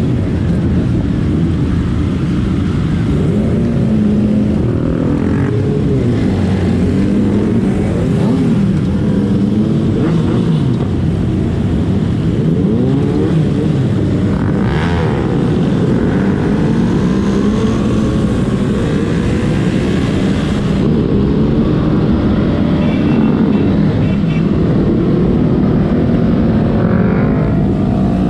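Many motorcycle engines running together, their notes rising and falling and overlapping as riders rev and shift.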